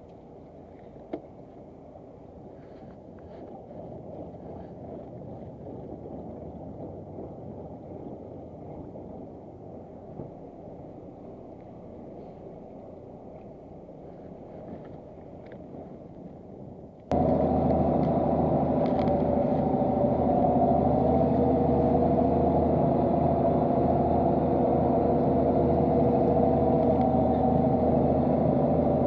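Fishing boat's engine running low and steady for about 17 seconds. It then jumps abruptly much louder into a steady, heavy engine drone that holds to the end.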